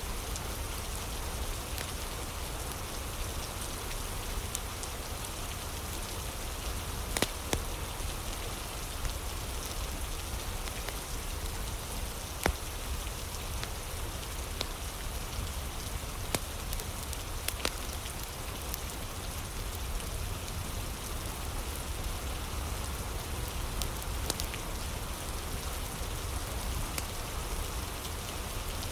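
Steady rain ambience with a handful of sharp pops and crackles now and then, as from a crackling fire.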